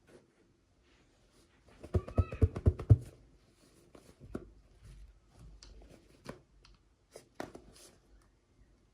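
A quick run of sharp plastic taps and clicks, with a brief squeak among them, then scattered lighter clicks and rustling: small doll pieces and plastic packaging being handled.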